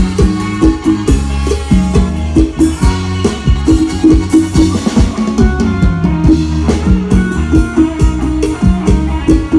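Thai procession band (khana hae) playing live through a sound system: a drum kit keeps a strong steady beat over a repeating bass line and an amplified melody.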